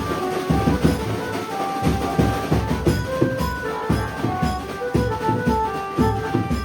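Konkan 'banjo' street band playing loudly: held melody notes from the band's lead instrument over a steady, fast beat of drums and tambourine.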